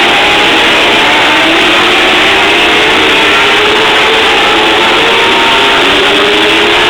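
Several TQ midget race car engines running hard at racing speed. Their pitches overlap and rise and fall.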